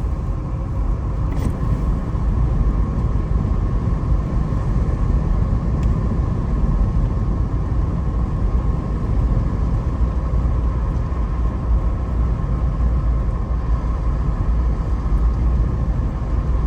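Steady low rumble of road and engine noise inside a moving Jeep's cabin, with a faint steady tone above it.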